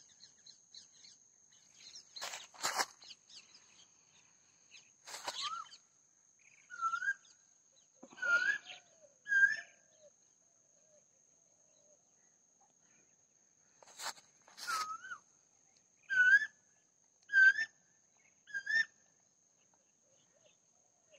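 Birds calling: a few harsh, rasping calls and six short, hooked whistled notes in two groups of three, over a steady thin high-pitched tone.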